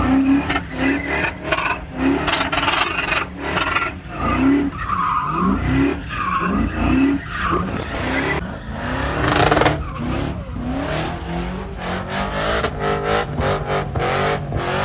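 Truck engine revving in repeated short rising bursts, with tires skidding and squealing on pavement.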